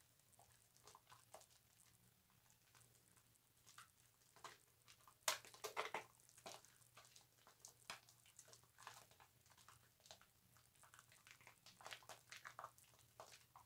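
A bar of soap being lathered: faint wet squishing and crackling of foam in scattered small clicks, with a louder flurry about five to six seconds in.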